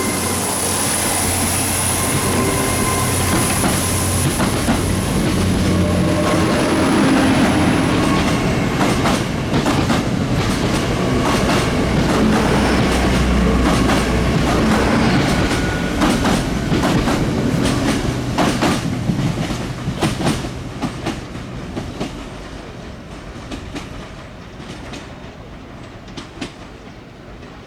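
A train passing, its wheels clicking over the rail joints, with a steady high whine for the first several seconds. The sound fades away over the last several seconds as the train moves off.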